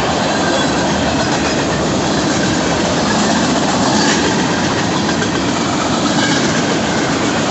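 Freight cars of a Union Pacific freight train rolling past close by: a steady, loud noise of steel wheels running on the rails.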